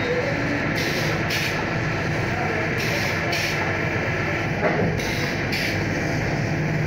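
Stamping machine running in a steady cycle: two quick strokes repeat about every two seconds over a constant machine hum.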